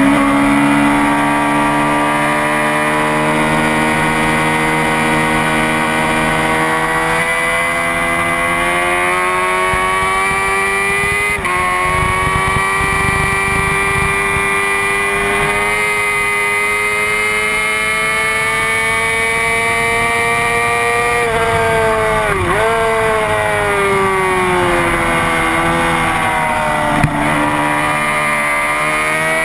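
Honda CBR600RR's inline-four engine running hard at high revs, its pitch climbing slowly, with a sudden drop about eleven seconds in. About twenty-one seconds in the revs fall sharply, dip, and then climb steadily again.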